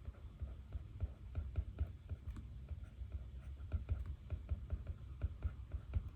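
Desk-work sounds: rapid, irregular light taps and clicks with soft dull knocks on a desk surface, as from writing notes or typing.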